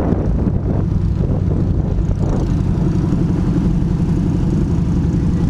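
A custom minitruck's engine running as the truck drives along, low and steady, settling into an even tone about two seconds in.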